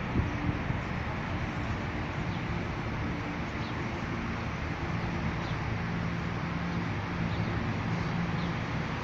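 Steady outdoor background noise with a low hum, over which birds give about six short, high chirps spaced a second or so apart. A few sharp bumps come just after the start.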